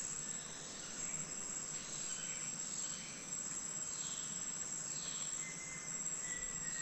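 Insects trilling in a steady, high-pitched chorus, with faint falling chirps about once a second.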